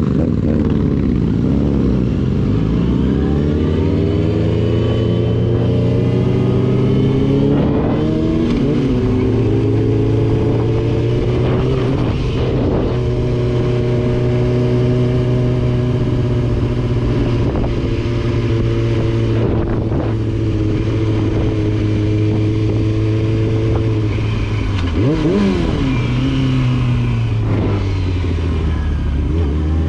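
Yamaha R6 sport bike's inline-four engine under way. The pitch falls as it slows, climbs and holds steady for a long stretch, then drops and rises quickly about three-quarters of the way through.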